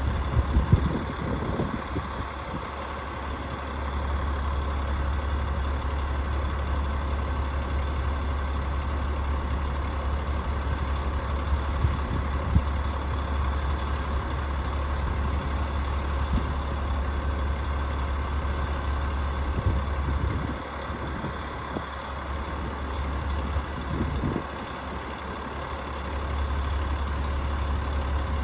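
Rooftop HVAC unit running with a steady mechanical hum and drone, with a few short knocks; the low part of the hum drops briefly twice.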